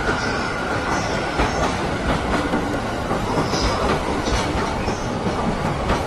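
Train running along the track: a steady rumble of wheels on rails with faint clicks and several brief high squeaks.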